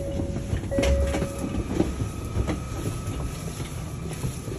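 Low rumble of a Shinkansen bullet train heard from inside a passenger car, with a thin steady whine through much of it and a couple of brief knocks.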